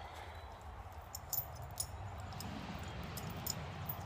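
A few light metallic clinks of steel chain being hooked together, over a steady low rumble.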